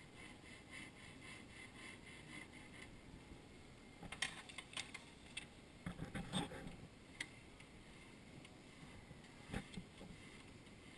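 Faint scraping and clicking of a jeweler's file working a rebuilt platinum ring prong into shape, light quick strokes at first, then a cluster of sharper clicks around the middle and one more near the end.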